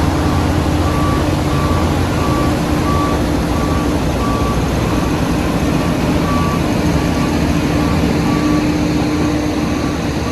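Diesel heavy construction machine running steadily while its reverse alarm beeps repeatedly, about one and a half beeps a second, over the engine.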